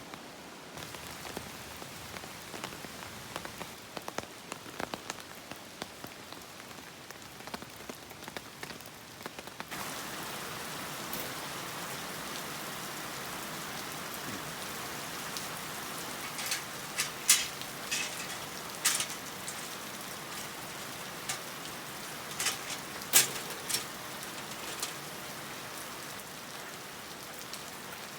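Light, steady rain pattering in many fine drops. About ten seconds in it thickens into a denser, louder hiss, and a handful of sharper, louder drop ticks stand out in the second half.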